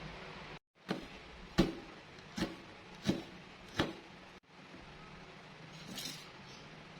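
Knife chopping on a cutting board: five sharp knocks about 0.7 s apart, starting about a second in, then a faint soft scrape near the end.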